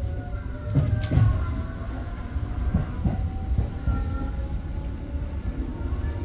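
Tobu 8000 series electric train running between stations: steady rumble of wheels on rail, with motor whine shifting in pitch. Short knocks of the wheels over rail joints come about a second in and again near three seconds.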